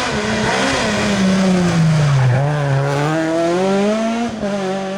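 Rally car engine running hard, its revs sliding down as the car slows for a corner and then climbing again as it accelerates away, with tyre and road noise underneath.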